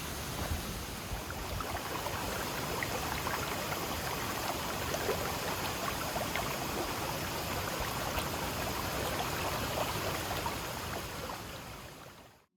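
Running water, a steady rushing and splashing like a stream or cascade, fading out near the end.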